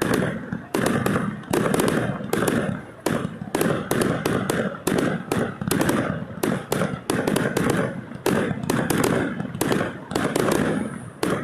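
Fireworks going off in a rapid, continuous barrage of bangs and crackles, several a second, easing slightly near the end.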